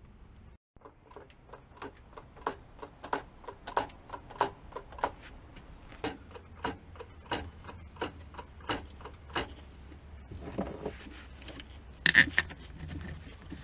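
Steady mechanical clicking, about one and a half clicks a second, fading out after about nine seconds, then a louder metallic clank near the end.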